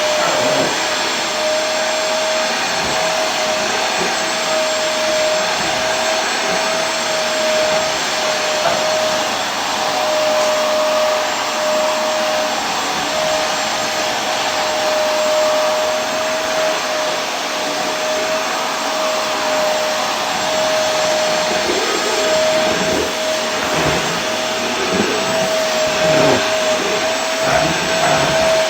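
Vacuum cleaner motor running steadily: an even rushing noise with a constant high whine.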